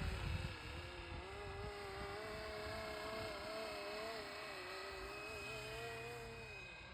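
Electric RC scale Bo 105 helicopter flying, its motor and rotor giving a steady whine that wavers slightly in pitch and fades out near the end. Wind buffets the microphone during the first second.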